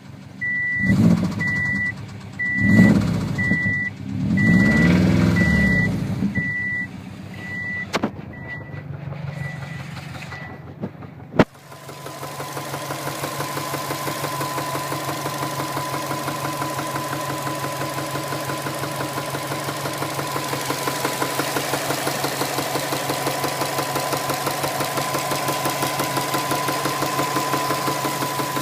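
Car engine starting while a dashboard warning chime beeps about one and a half times a second, fading out after about ten seconds. After a sharp click about eleven seconds in, the engine settles into a steady idle with a rhythmic knock.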